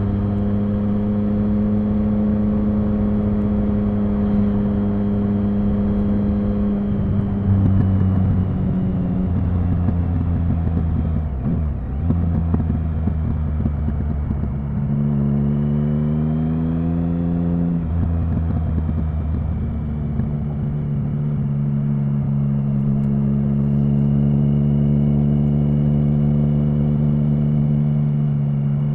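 Triumph Speed Triple 1050's inline three-cylinder engine under way at moderate, steady revs, dipping briefly as the throttle is eased off just before halfway. It then rises in pitch for a few seconds as the bike pulls away, and settles back to a steady cruise.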